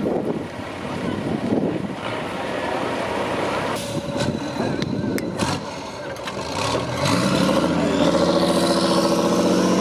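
Truck engine revving up about two-thirds of the way through and then held steady at high revs, after a stretch of rumbling and a few sharp knocks.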